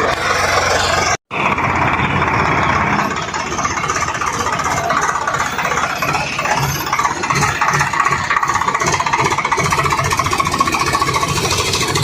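Swaraj 744 XT tractor's diesel engine running steadily. The sound cuts out for an instant about a second in.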